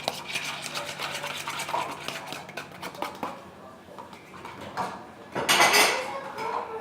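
A utensil scraping and clinking against a bowl while slime is stirred, with quick scratchy strokes over the first few seconds and a louder clatter about five and a half seconds in.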